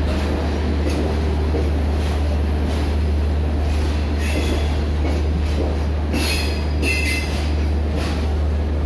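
Indian Railways passenger coaches of the East Coast Express rolling slowly past as the train pulls out, with a steady low rumble and occasional clicks of wheels over rail joints. Brief high wheel squeal comes in about six to seven seconds in.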